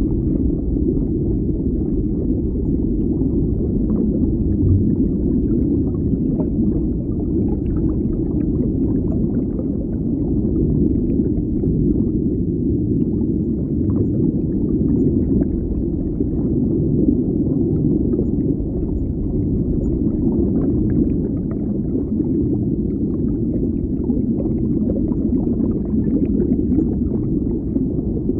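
Underwater ambience: a steady, muffled low rumble of water, with faint scattered crackles and pops over it.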